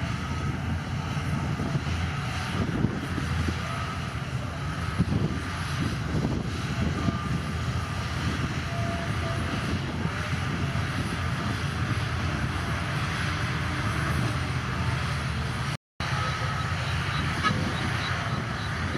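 Heavy earthmoving machinery's diesel engine running steadily under load, with a few small knocks over it; the sound drops out for an instant near the end.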